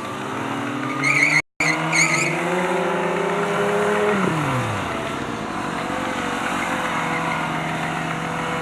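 Motorcycle engine revving up through the gears with a steadily rising pitch, then dropping off quickly about four seconds in and settling to a steady lower note. Short high squeals come about a second in, and the sound cuts out for an instant in between.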